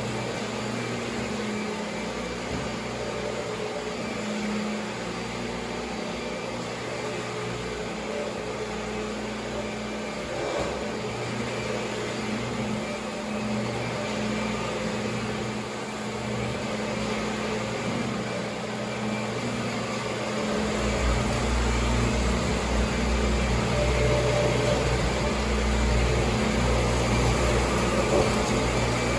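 Kirby G4 upright vacuum cleaner running steadily, a motor hum with a deeper rumble growing louder about two-thirds of the way through.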